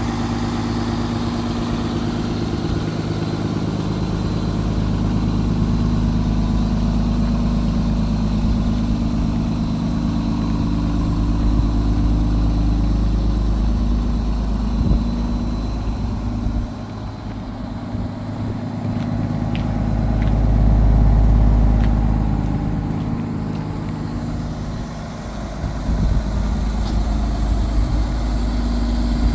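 International MV 26 ft box truck's engine idling steadily with a low, even hum, growing louder and softer at times.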